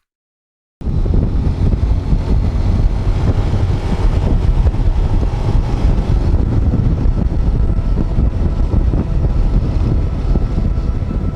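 Wind rushing over the microphone of a motorcycle moving at speed, with the bike's running noise beneath, loud and steady. It starts suddenly about a second in.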